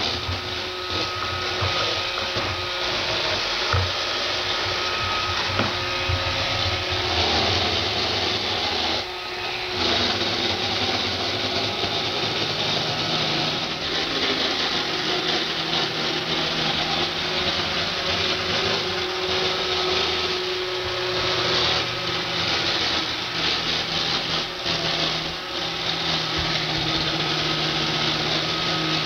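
iRobot Roomba 560 robot vacuum running on a hardwood floor: a steady motor whir with a constant rattle, dipping briefly about nine seconds in. The owner takes the rattle for a fault, as the same floors were quieter with his older Roomba Discovery.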